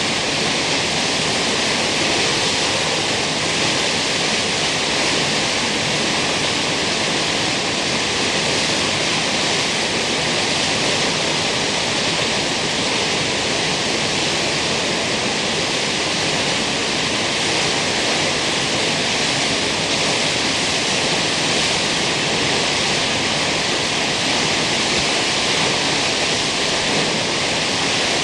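Kegon Falls, a tall waterfall, with its water crashing down in a loud, steady, unbroken rush.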